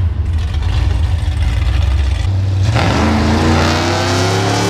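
Car engines running under a steady low rumble, with an engine note that climbs steadily from about three seconds in as cars accelerate hard.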